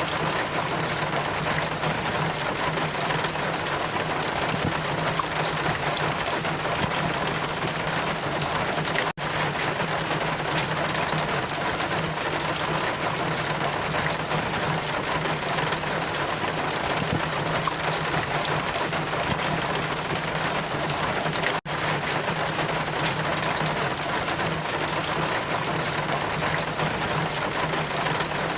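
Steady rain, a dense even hiss with a low steady hum underneath. It cuts out for a split second twice, about nine seconds in and again about twenty-one seconds in.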